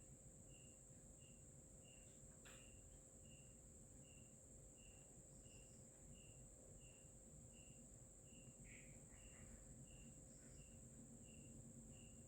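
Near silence with faint insect sounds: a cricket-like chirp repeating about one and a half times a second over a steady high buzz, and one faint click about two and a half seconds in.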